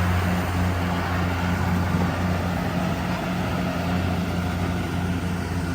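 Rice harvester's engine running steadily, a continuous low machine hum with mechanical noise over it.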